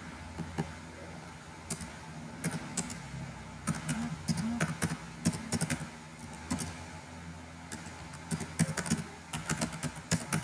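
Computer keyboard typing: key clicks in irregular bursts, heaviest in two runs mid-way and near the end, over a steady low hum.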